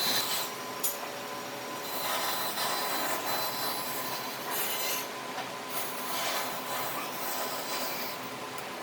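A tool rubbing or rasping across wood in a series of strokes, each about a second long.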